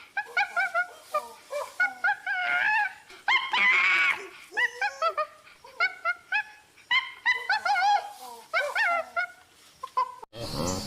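A dog, likely puppies, whimpering and yipping in a rapid series of short, high cries that bend up and down in pitch, with one longer cry about four seconds in. It is cut off abruptly near the end by a different, lower, denser sound.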